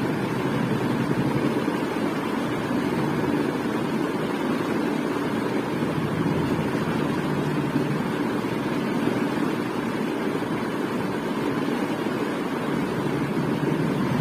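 Ceiling fan running steadily, a constant low whooshing hum of moving air.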